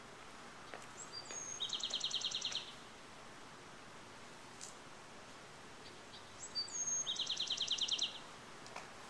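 A small songbird singing the same song twice, about five seconds apart: a couple of short high notes, then a fast even trill of about ten notes a second lasting about a second.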